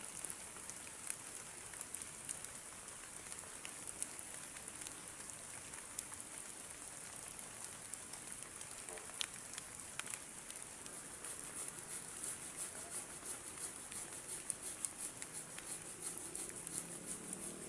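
Heavy rain falling steadily, with many individual drops ticking against a surface; the drop strikes grow denser about two-thirds of the way in.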